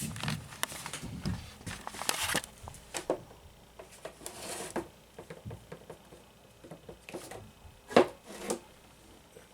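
Scattered clicks, knocks and rustling from handling, with a short hiss about four and a half seconds in and a sharp click near the end.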